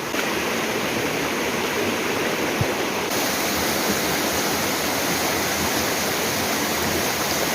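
Steady rushing water from a mountain waterfall or stream.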